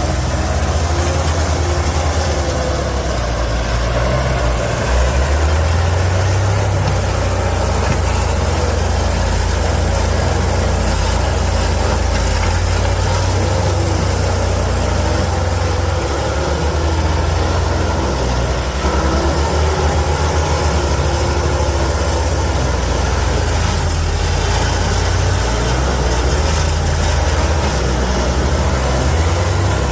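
Excavator's diesel engine running steadily, a loud, deep drone that holds throughout.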